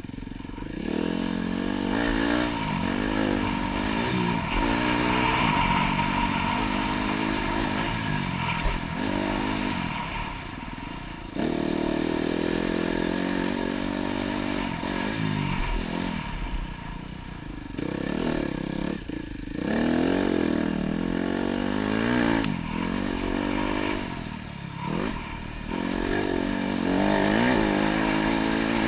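Dirt bike engine revving hard on a motocross track, its pitch climbing and dropping again and again as the throttle is opened and closed, with a steady rush of wind behind it.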